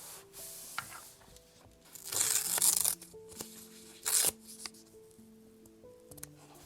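Paper being torn by hand: a long rip about two seconds in, then a shorter tear a second or so later, over soft background music with slow held notes.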